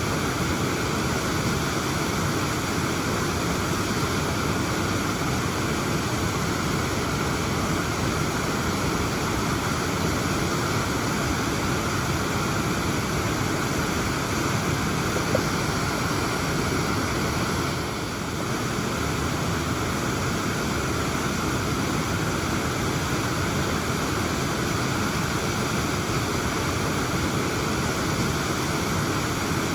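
Waterfall: a steady, even rush of falling water, with a slight dip in level about eighteen seconds in.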